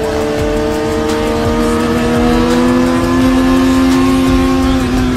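Sport motorcycle engine held at high revs through a long wheelie, one steady tone whose pitch climbs slowly, then levels off and eases slightly near the end.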